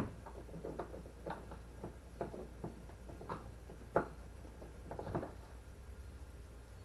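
Hands working a Yak Attack kayak accessory mount, a string of irregular small clicks and knocks as it is loosened and moved; the sharpest knock comes right at the start, another about four seconds in, then it goes still.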